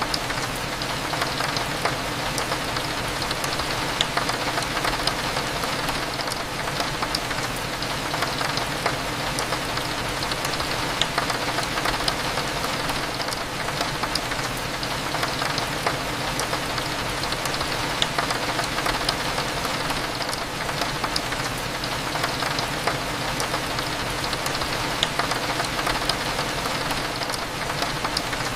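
Steady rain falling against a window, with scattered sharp drop ticks, over a low steady hum.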